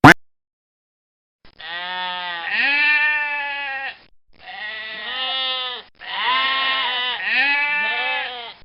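Bleating livestock: three long, wavering bleats one after another, the first starting about a second and a half in. A sharp click comes right at the start.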